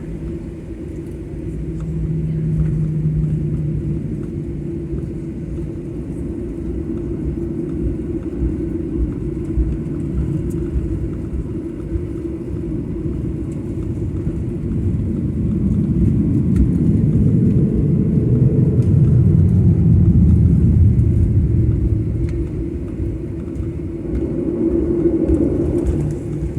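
Airliner cabin noise: the steady low rumble of the jet engines and airframe heard from inside the cabin, swelling louder for several seconds past the middle.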